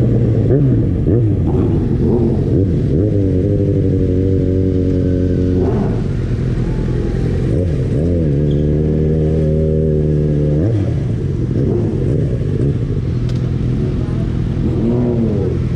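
Yamaha XJ6's 600 cc inline-four engine, heard from the rider's seat, pulling through city traffic. Its pitch climbs and holds steady twice, then drops sharply as the throttle is closed, over a rush of wind.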